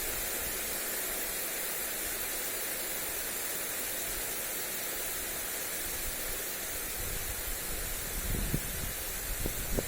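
Lawn sprinkler spraying water onto grass, a steady hiss. Wind gusts on the microphone add an uneven low rumble over the last few seconds.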